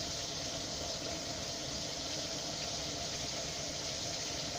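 Pieces of crucian carp frying in oil in a pan: a steady sizzle.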